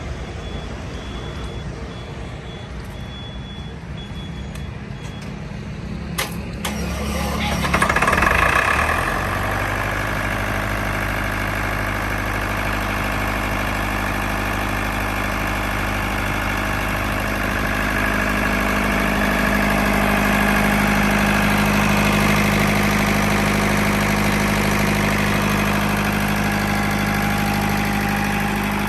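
Tata 709 four-cylinder diesel engine of a 50 kVA generator set started with its electric self-starter: a sharp click about six seconds in, a loud burst as it cranks and catches about two seconds later, then the engine running steadily.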